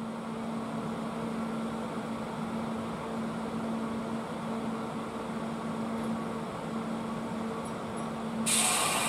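Kintetsu 30000-series Vista EX limited express standing at the platform, its onboard equipment humming steadily at a low pitch. About eight and a half seconds in, a loud hiss of air starts suddenly.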